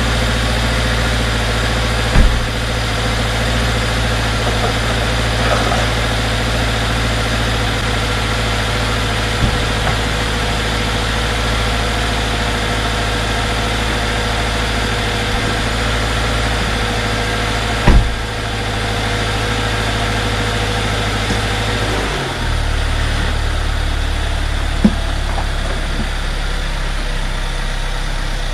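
Subaru Ascent's 2.4-litre turbo boxer engine idling steadily, just refilled with fresh oil after an oil change. The idle drops a step about 22 seconds in. A few sharp clicks or knocks sound over it.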